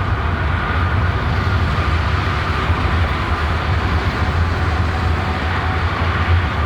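Steady low rumbling noise, like a vehicle running, with an even hiss above it.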